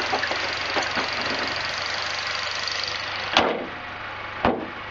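Honda EP3 Civic's K20 four-cylinder idling steadily, its new header gasket having sealed the exhaust leak. About three and a half seconds in the hood is shut with a loud thump, the engine sounding a little quieter after it, and a second thump follows about a second later as the hood is pressed down.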